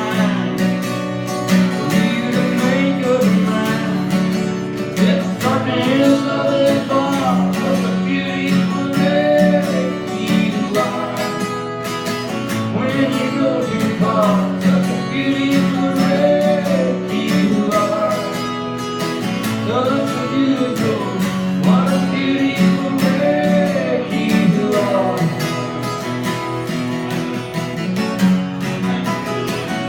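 Live music: a strummed acoustic guitar playing steadily, with a melody line that rises and falls over it.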